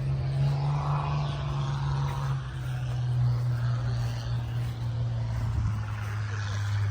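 An engine running steadily with a low drone, its pitch dropping slightly about five and a half seconds in.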